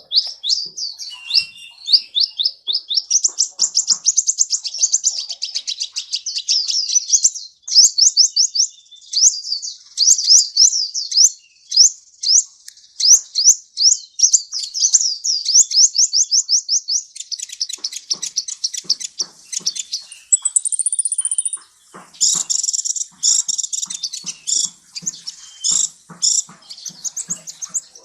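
Sunbird (Indonesian 'kolibri') singing a long, high-pitched song of rapid sharp chirps and trills. About two thirds of the way through there is a short lull, and then the song turns busier and more varied.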